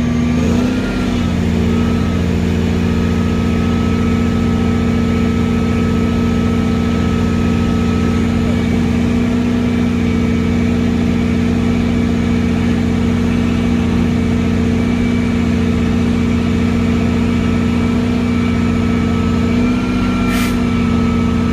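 Roll-off truck's diesel engine held at raised revs to power the hydraulic hoist that winches a roll-off container up onto the rails. The engine steps up slightly about half a second in and then runs steadily, with a thin high whine above it.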